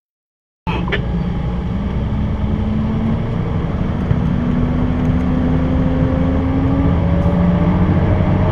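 Fire engine's engine running, heard from inside the cab, with its pitch rising slowly as the truck accelerates. The sound cuts in suddenly after a moment of dead silence.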